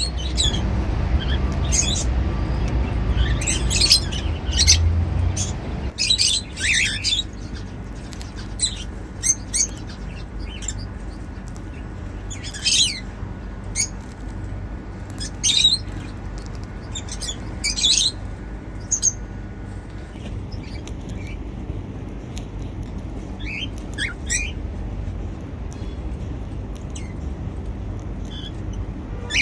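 Pet cockatiels giving short, high chirps every second or two, thinning out after about twenty seconds. A low rumble runs under the calls for the first six seconds.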